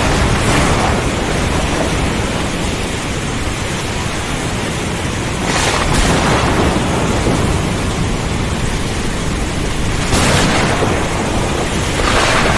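Thunderstorm: heavy rain and wind making a dense, steady hiss over a continuous low rumble of thunder. Sharper cracks break through near the start, about halfway, and twice near the end.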